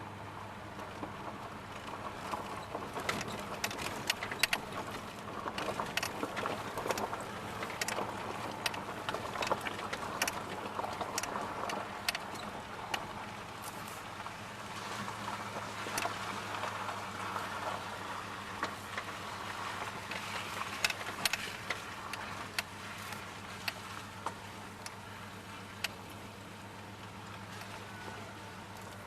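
1992 Dodge Dakota pickup running on wood gas, driving at a steady pace with an even low engine hum, heard from inside the cab, with many small clicks and rattles over it.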